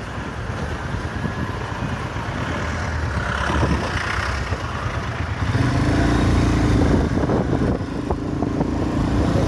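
Motorcycle engine running on the move over a rough, noisy rumble. About five and a half seconds in, a louder, steadier engine note comes in and holds.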